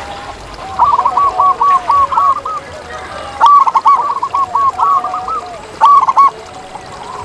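Zebra doves (perkutut) calling: rapid runs of short, clipped, arched notes about a second in, again from about three and a half seconds, and a short burst near six seconds, with fainter, lower cooing notes from another dove underneath.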